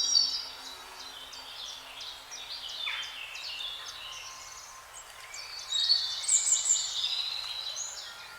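Several small birds chirping and trilling over one another, with a dense burst of calls at the start and another about six seconds in.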